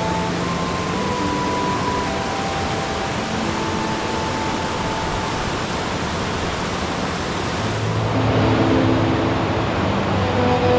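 Waterfall rushing, a steady loud wash of falling water, with soft held notes of relaxing music faintly over it. About eight seconds in the rush gets a little louder and duller.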